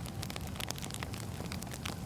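Wood fire crackling: a steady low rumble of burning logs with many small, irregular pops and snaps.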